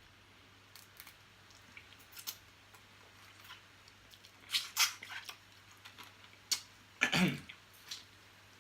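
Close-up eating sounds of small blue crabs being eaten whole: scattered crunches and clicks of shell, loudest about five seconds in, then a longer wet sound falling in pitch about seven seconds in.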